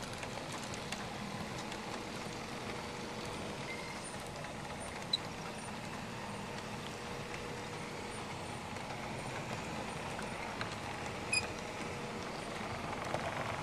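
Large-scale Aristo-Craft model train with six RS-3 locomotives running: a steady rolling rumble of wheels on track with a faint steady motor-gear whine. A few sharp clicks, the loudest about five and about eleven seconds in.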